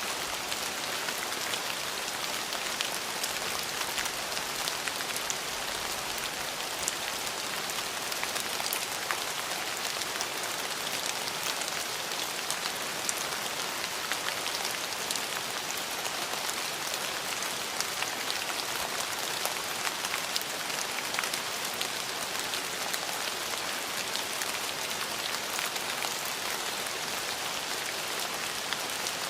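Steady rain falling, an even hiss with many small drops ticking sharply on hard surfaces.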